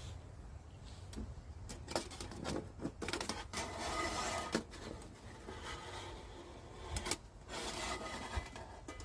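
Irregular rubbing and scraping handling sounds with scattered sharp clicks, densest about four seconds in.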